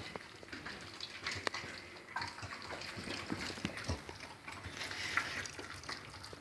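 Dogs eating mince and grated cheese off plates: irregular wet chewing, licking and slurping with small clicks.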